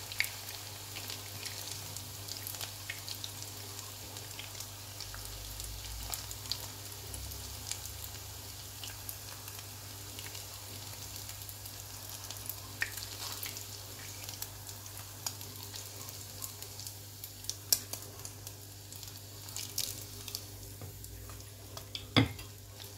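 Beef meatballs frying in hot oil in a non-stick pan, a steady sizzle with constant small crackles. A few sharp clicks stand out, the loudest near the end, as chopsticks lift the meatballs out onto a plate.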